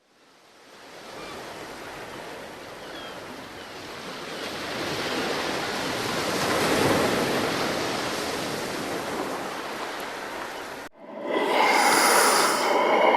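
Even rushing noise, like surf, swelling gradually over about ten seconds. It cuts off abruptly near the end and gives way to a loud, short pitched sound with several tones.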